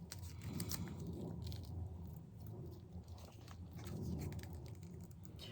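Light clicks and crackles from plastic cups and paint bottles being handled as acrylic paint is poured into a cup, over a low steady hum.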